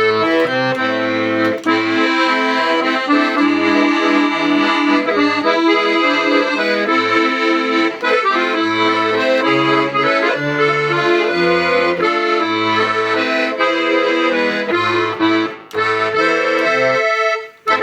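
Hohner Concerto II accordion playing a tune: sustained melody and chords from the treble side over short, separate bass notes from the left-hand buttons. There is a brief break near the end, and then the playing stops.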